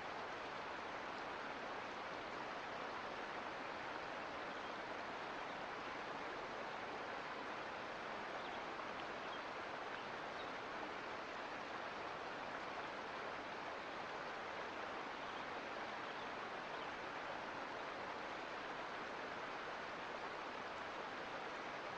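Mountain creek water running over rocks, a steady even rush with no changes.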